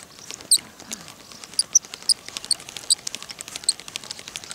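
Small birds chirping in short, high, repeated notes, irregularly spaced, over a light crackle of fine clicks.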